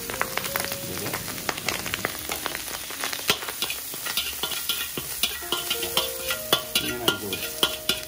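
Prawns and chopped vegetables sizzling in hot oil over a raised flame, with frequent sharp clicks and scrapes of a spoon or spatula stirring them in the pan.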